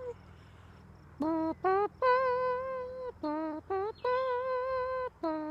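A woman humming a wordless tune: two short low notes rising into a long held higher note, three times over, after a moment of quiet.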